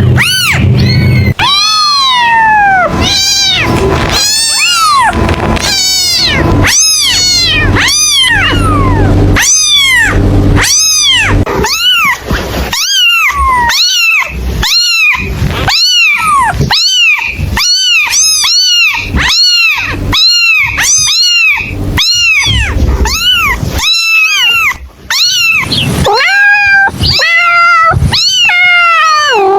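Kittens meowing over and over, high calls that rise and fall in pitch, about one a second and sometimes overlapping. A low steady hum sits underneath for the first ten seconds or so.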